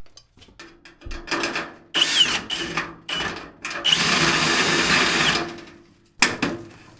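Power drill with a step bit boring out a hole, run in several short pulls of the trigger and then one longer steady run with a high motor whine. A sharp knock follows near the end.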